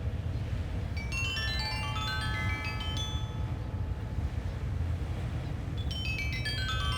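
Sanukite stone xylophone tuned to 432 Hz, played in a pentatonic scale: a quick rising run of ringing notes about a second in, and a falling run near the end. Beneath it, a steady low rumble of beach wind.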